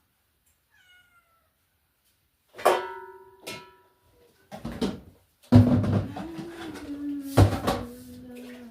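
A metal vessel struck and set down with a bright ringing clang, a second clang, then a few knocks. Water then starts pouring into a container, its ringing pitch stepping up and down.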